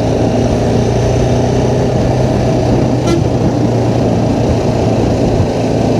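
BMW G310R single-cylinder motorcycle engine running at a steady pace, a constant low hum under heavy road and wind rush picked up while riding.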